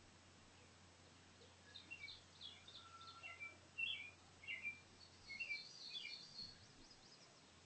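Faint birdsong: short high chirps repeated over several seconds, with a brief higher trill near the end.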